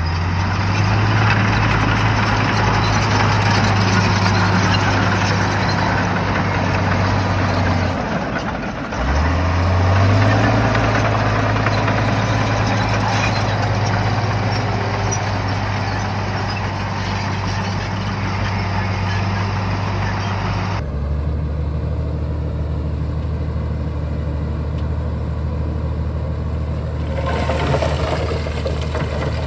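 Shantui bulldozer's diesel engine running hard with scraping and clattering noise over it. The note breaks off briefly about a third of the way in and comes back rising. About two-thirds in the sound changes suddenly to a lower, steadier engine hum with much less noise above it.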